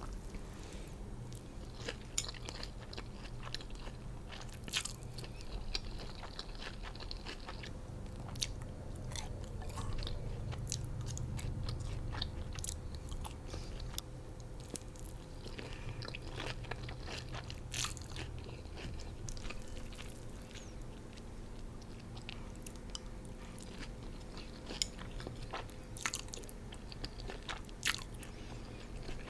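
Chewing and crunching of a spring roll bowl with rice vermicelli noodles, with many scattered short clicks and smacks of mouth and food.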